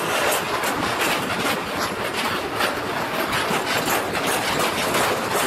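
Intermodal freight train of flat wagons carrying tank containers rolling past, its wheels clattering over the rail joints in a steady run of clicks over a continuous rolling hiss.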